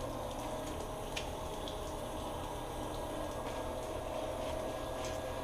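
Steady hiss and low hum in a small bathroom, with faint wet clicks and squelches of hands lathering shampoo into a dog's wet fur.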